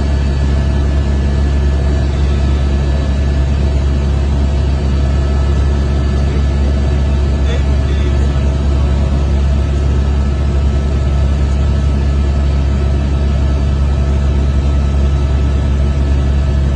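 Glacial lake outburst floodwater rushing down the valley, a steady, unbroken deep rumble.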